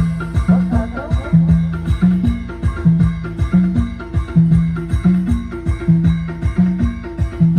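Timli dance music from a band: a fast, steady drum beat under a repeating low melodic phrase.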